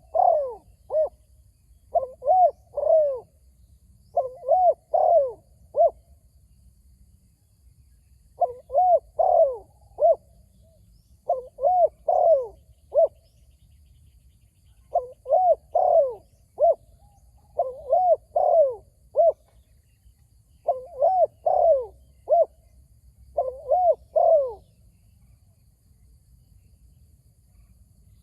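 Spotted dove cooing: about nine phrases of three or four rising-and-falling coos, one every two to three seconds, stopping near the end.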